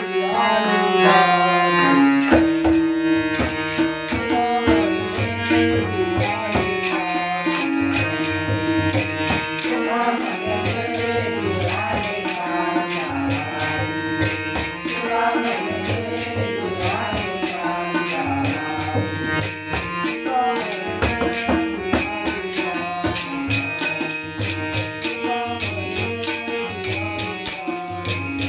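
Instrumental opening of a Marathi devotional abhang: a sustained melodic instrument plays the tune, while a drum and small jingling hand cymbals keep a steady rhythm from about two seconds in.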